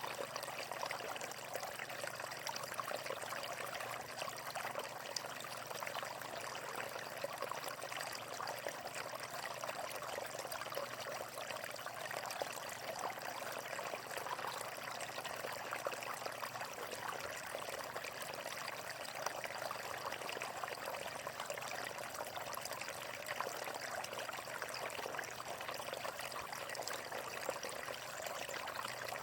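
A steady rush of flowing water with many small splashes, unchanging throughout.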